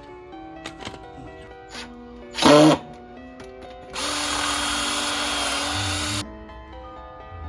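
Handheld power drill running steadily for about two seconds near the middle, after a short burst of sound a little earlier; background music throughout.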